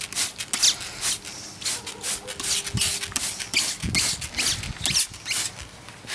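Short, irregular hissing strokes, several a second, from cleaning work on a car's engine bay.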